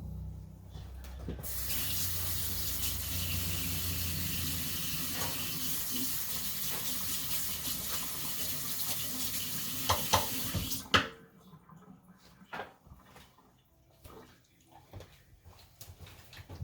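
Water running steadily for about nine seconds, then cut off. A couple of sharp knocks come near the end of it, and a few faint clinks follow.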